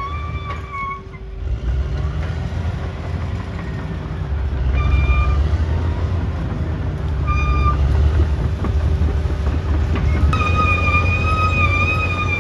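Caterpillar D6R XL bulldozer's diesel engine working under load, its low rumble swelling and easing as it pushes. A high whine drops out about a second in, returns briefly twice, and comes back to stay near the end.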